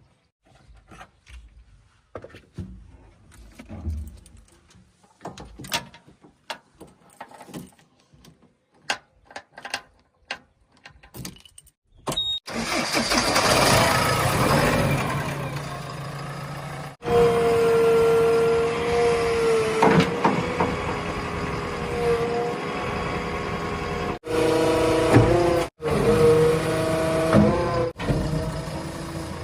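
Faint scattered knocks and clicks, then about twelve seconds in a heavy vehicle's diesel engine comes in suddenly and runs loudly with a steady whine over it, breaking off abruptly several times.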